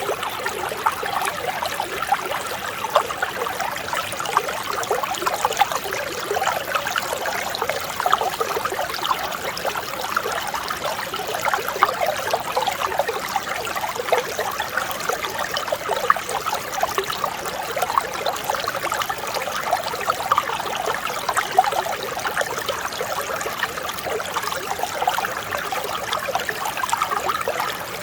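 Mountain stream flowing, a steady, gentle babble of many small gurgles and splashes.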